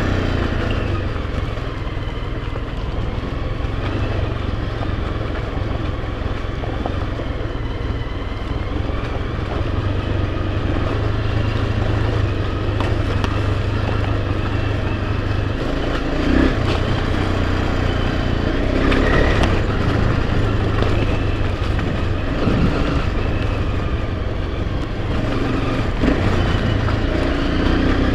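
Enduro dirt bike engine running steadily while riding, with a few brief knocks along the way.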